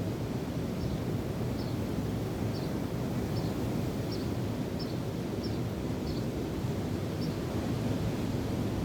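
Steady wind and waves, with a small bird repeating a short, high chirp about every two-thirds of a second.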